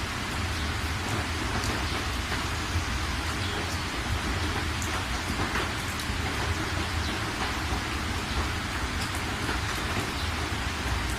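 Steady rain falling, an even hiss with scattered individual drop ticks and a steady low rumble underneath.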